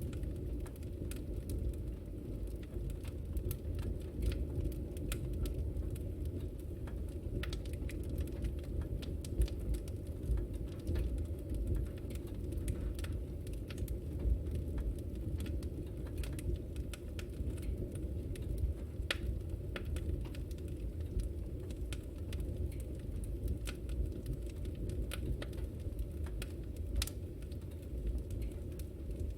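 Wood fire burning in a fireplace: a steady low rumble of flames with frequent sharp crackles and pops scattered irregularly.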